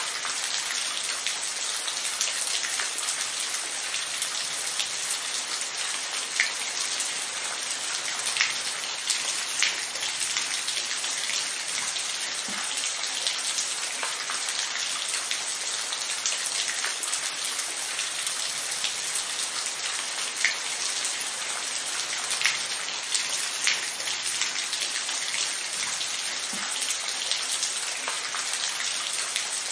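Steady rain falling on a surface: an even hiss with individual drops ticking sharply here and there.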